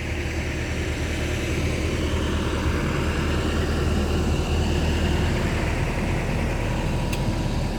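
Heavy diesel engine running steadily, a low drone that eases off slightly about five seconds in.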